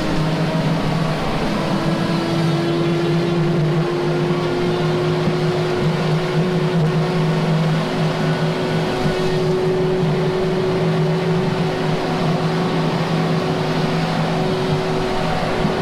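Heavy diesel machine engine running steadily under load, with a whining tone that rises slowly in pitch.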